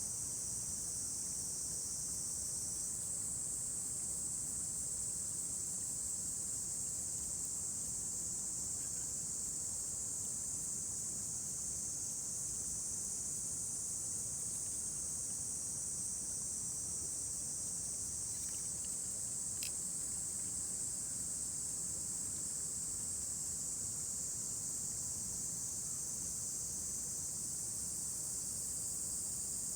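Steady, high-pitched chorus of evening insects singing without a break, over a low even rumble, with a single faint click about two-thirds of the way through.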